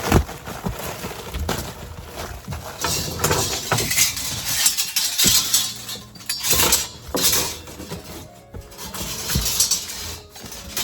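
Hand work on HVAC ductwork being strapped: irregular rustling, scraping and metallic clinks and knocks.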